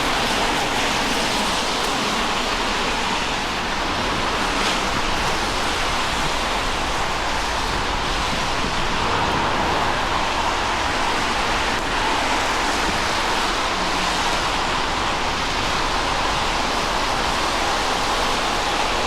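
Steady hiss of rain falling on a wet city street, with no break or change.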